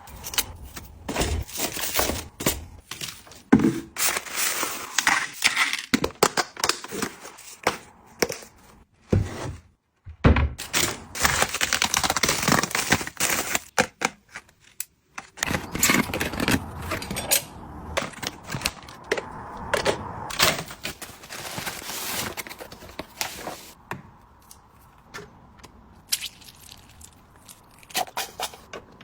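Items and packaging being handled during an unboxing: irregular knocks, scrapes and crackling, broken by two brief silent gaps.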